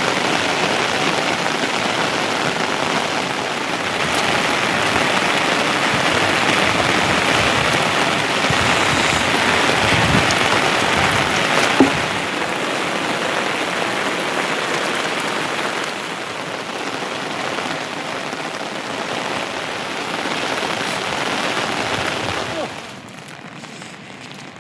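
Heavy monsoon rain falling steadily, with one sharp knock about halfway through; the rain sound drops suddenly to a much lower level about two seconds before the end.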